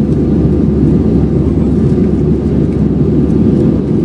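Steady roar of an Airbus A320's jet engines and rushing air heard inside the passenger cabin, the low, even drone of the aircraft in flight.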